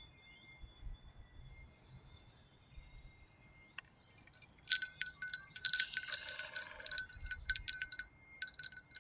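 Wind chimes ringing, setting in about halfway through with a quick, dense run of strikes whose high tones ring on between them.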